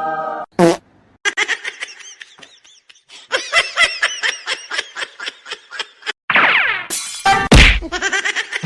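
Rapid, repeated laughter in short bursts, about five or six a second, followed by a loud sudden hit about seven seconds in.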